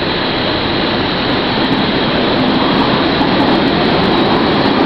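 A train rumbling as it approaches through the station: a steady, loud rumble that slowly grows louder.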